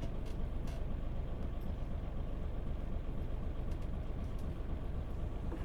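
Mitsubishi Fuso Aero Star (PJ-MP35JM) city bus's diesel engine idling steadily at a stop, heard from inside the bus, with a few faint clicks.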